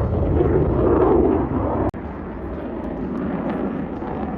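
Loud jet aircraft engine noise as a jet flies past, swelling over the first second and a half, then easing to a steady rumble.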